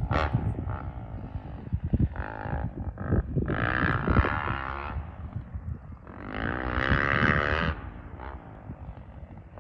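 Dirt bike engine revving up and down as it rides, loudest about four and seven seconds in, over a low rumble.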